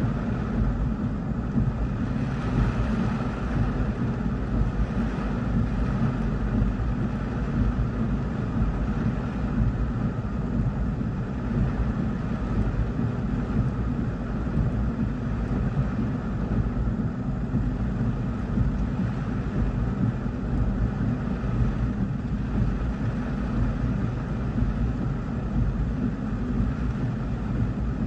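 Heavy rain drumming steadily on a car's roof and windshield, heard from inside the car, with strong wind gusting around it and a dense low rumble.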